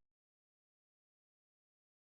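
Complete silence: no sound at all.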